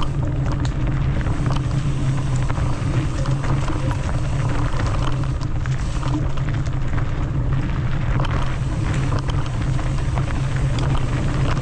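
Mountain bike riding fast down a rough dirt trail: a steady rush of wind and tyre noise, with scattered small rattles and knocks from the bike on the rough ground.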